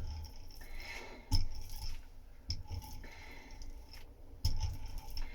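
Fin roller working resin into fibreglass mat on the boat's hull, giving soft wet squishing scrapes and light clicks, with a few dull low knocks as it is pushed along.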